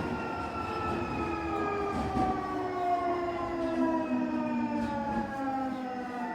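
Hitachi SiC VVVF inverter whine of a Semboku 9300 series train: several tones falling steadily in pitch together as the train slows, over the low rumble of the wheels on the rails.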